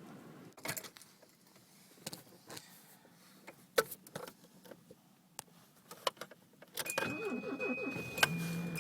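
Car keys jangling with several sharp clicks and knocks. Near the end a steady high-pitched tone comes on, along with a low whirring sound.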